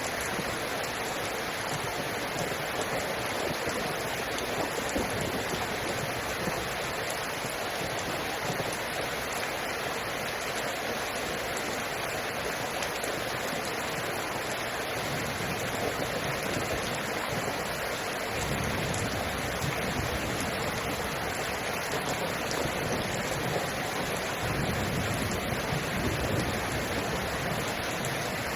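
Steady, even rush of falling rainwater, with no separate drops standing out; a low rumble swells in and out in the second half.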